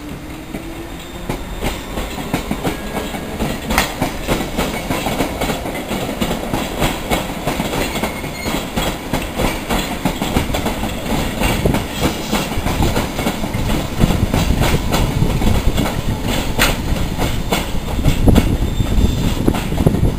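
London Underground electric train pulling away: a traction motor whine rising in pitch over the first few seconds, then wheel and rail running noise with steady clickety-clack as the wheels cross rail joints and points.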